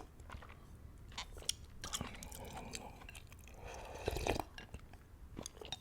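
Close-miked eating of noodles and beef in broth: chewing with wet mouth clicks, the fullest burst about four seconds in.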